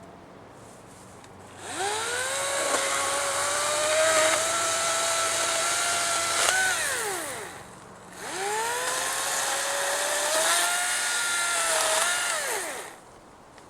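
Battery-powered electric chainsaw run in two bursts of about five seconds, each a high whine that rises as the chain spins up and drops away as the trigger is released, with quiet between and no engine idle.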